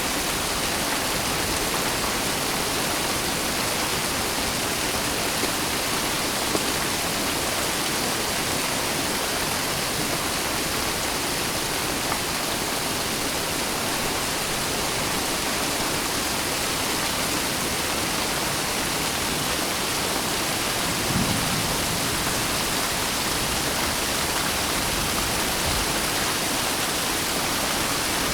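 Steady rain falling, an even hiss with a few faint drop ticks and a brief low swell about 21 seconds in.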